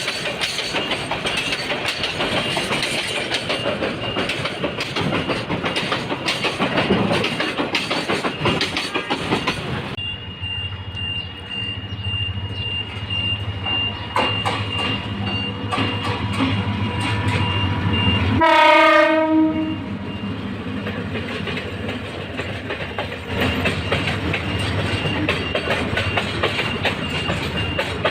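Goods train running on the rails with a dense clattering of wheels over the track. This drops to a low steady hum, broken two-thirds of the way through by one short horn blast of about a second. The clatter then picks up again near the end.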